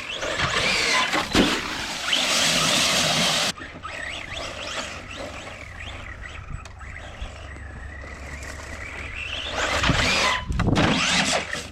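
Hobby-grade electric RC truck driven hard, its electric motor whining up and down in pitch as the throttle is worked. The first loud run cuts off suddenly about three and a half seconds in, and the truck comes loud again near the end.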